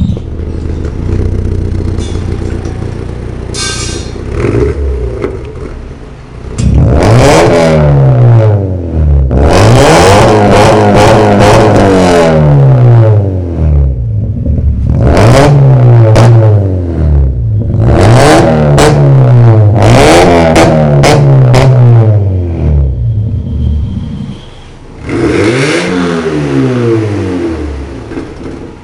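Volkswagen Golf engine idling, then revved about seven times through an aftermarket electronic valved exhaust, each rev climbing and falling back, with a short settle toward idle between the last revs.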